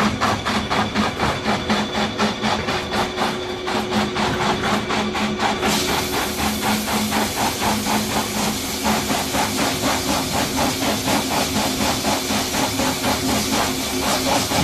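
Tissue paper-towel log saw cutting machine running, with a fast even mechanical clatter at about four knocks a second over a steady hum. About six seconds in, a steady hiss joins and runs on.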